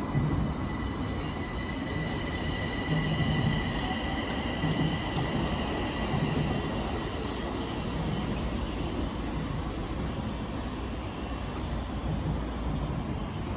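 Stockholm Metro train running on the rails: a steady rumble, with a high whine that fades away over the first several seconds.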